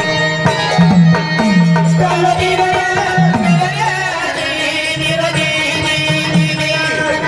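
Instrumental interlude of Marathi devotional folk music: a melody over a bass line that slides between notes, with hand-drum percussion.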